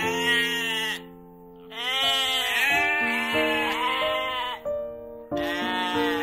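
Sheep bleating again and again, several long wavering bleats with a short pause about a second in, over background music with held notes.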